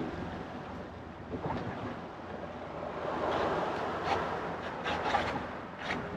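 Strong wind buffeting the microphone over water splashing on a small boat, with a few short sharp noises in the second half.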